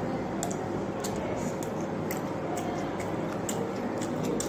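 Eating sounds: chewing and small sharp mouth clicks, several a second, as luchi (deep-fried flatbread) with curry is torn and eaten. Under them is steady room noise with a faint hum.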